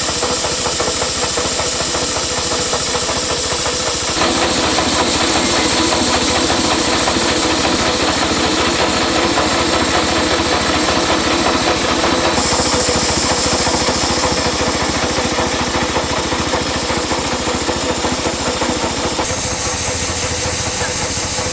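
Engine running steadily with a rapid knocking beat. Its tone shifts about four, twelve and nineteen seconds in.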